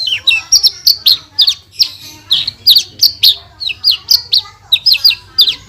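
Javan bush lark (branjangan) singing a fast, unbroken string of short, sharp, high chirps and falling whistles, several a second: the rapid 'tembakan' bursts that bird keepers prize.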